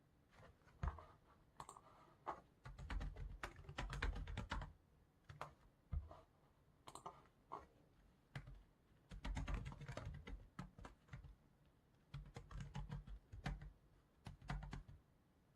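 Typing on a computer keyboard in irregular bursts of quick keystrokes with short pauses between them.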